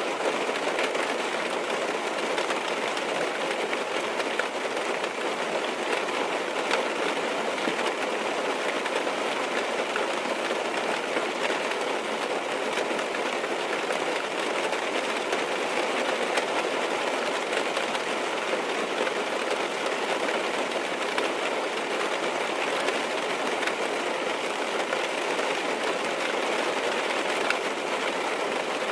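Rain falling on a car, heard from inside the cabin: a steady even hiss flecked with faint drop ticks, with no change in strength.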